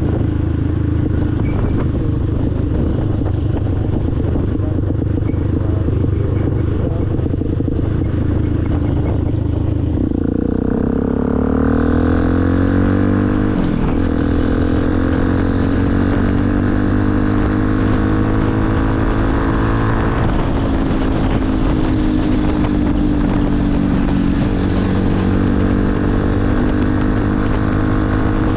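Motorcycle engine running under way. About ten seconds in its pitch drops and then climbs slowly as the bike picks up speed, with smaller dips later from further gear changes.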